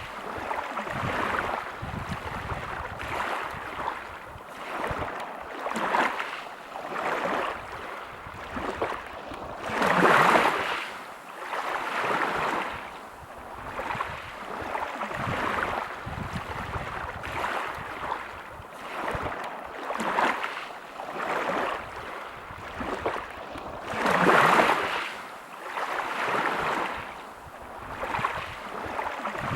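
Sea waves breaking on a pebble beach, the surf washing in and out in repeated surges. Two bigger breakers stand out, one about ten seconds in and one near the end.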